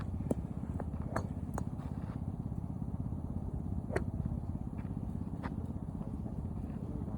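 Sharp clicks of golf clubs striking balls, five in the space of about five seconds, over a steady low rumble.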